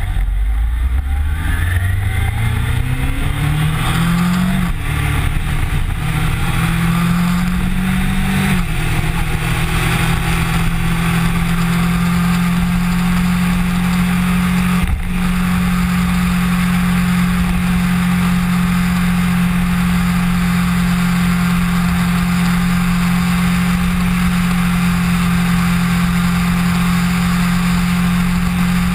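Kawasaki Ninja sport bike engine accelerating through the gears: the note climbs, drops at an upshift about five seconds in, climbs again and drops at another upshift near nine seconds, then holds steady at cruising speed. Wind and road noise rush over the bike-mounted camera throughout.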